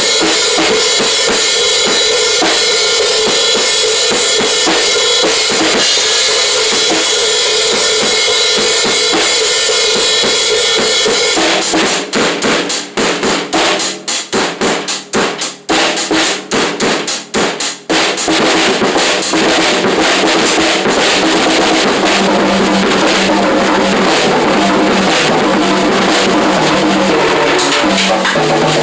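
Drum kit played hard along to a loud rock track, cymbals washing over the music. About twelve seconds in comes a run of rapid, separate drum hits lasting several seconds, before the full beat returns.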